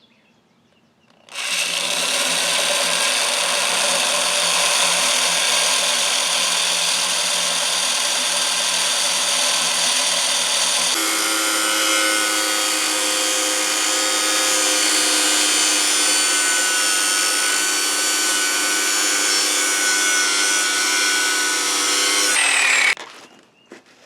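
Electric drill boring out a set screw in a stuck nut on a mower shaft, running steadily for about twenty seconds. Its pitch shifts about halfway through, and it stops abruptly near the end.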